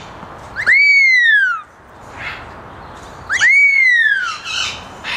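Parrot whistling twice, each whistle about a second long: a quick rise in pitch followed by a long falling glide.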